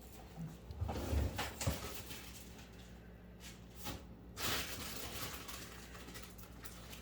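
Quiet kitchen handling noises: a few light knocks early on and a short rustling swell about four and a half seconds in, over a faint steady hum.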